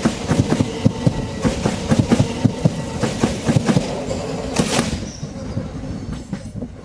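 Class 375 Electrostar electric multiple unit passing, its wheels clicking rapidly over rail joints over a steady rumble; the clicking thins out and fades after about five seconds.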